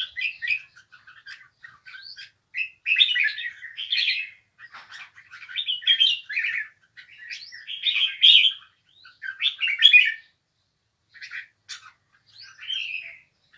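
A wild-caught songbird singing: bursts of warbling phrases about a second long, with short pauses between them.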